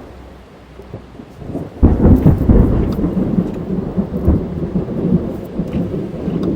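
A thunderclap breaks about two seconds in and rolls on as a long, crackling rumble, heard from inside a car with rain falling on it.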